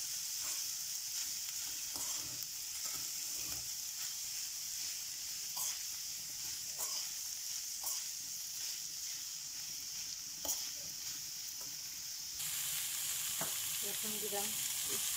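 Minced chicken keema sizzling steadily as it fries in a pan, stirred with a metal spoon that scrapes and taps against the pan now and then. The sizzle changes abruptly near the end.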